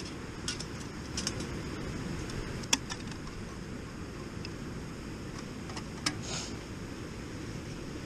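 Wind rumbling on the microphone, with several light clicks and clinks scattered through it, the sharpest about three seconds in.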